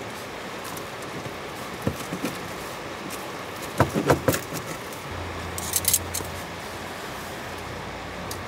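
Cookware clatter: a few knocks and clinks of a pan and utensils over a steady low hiss, with a low hum coming in about five seconds in.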